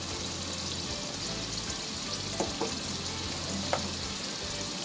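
Mutton karahi frying in ghee over high heat in a karahi: a steady sizzle during the bhunai, the frying-down stage of the masala. A few light clicks come around the middle and again near the end.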